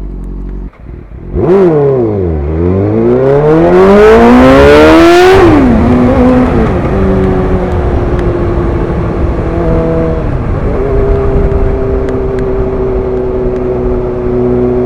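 Suzuki GSX-R sportbike engine accelerating hard under full throttle, its note rising steeply for about three seconds with loud wind rush, then dropping sharply at an upshift. After two more gear changes it settles to a steady cruising note. The pull was hard enough to lift the front wheel a few inches.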